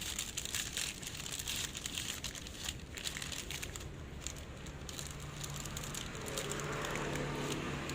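Crinkling and irregular light clicks and knocks of bread dough on a baking tray being handled for the oven. A steady low hum comes in about five seconds in.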